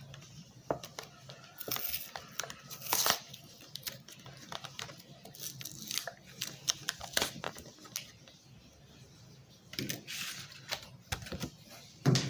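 Plastic clamshell packaging and its paper card being handled and torn open: crinkling and tearing with many sharp clicks, and short rustling bursts about two, three and ten seconds in.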